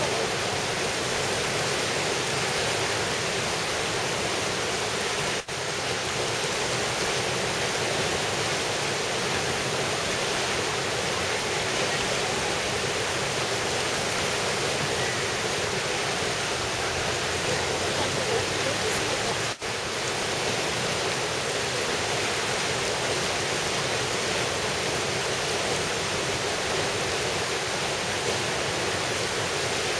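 Steady rush of fast-flowing water in a mountain valley stream, dipping out briefly twice, about five and twenty seconds in.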